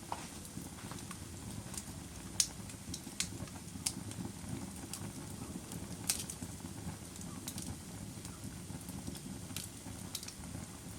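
Fire crackling, with scattered sharp pops and snaps, a few seconds apart, over a steady low rumble.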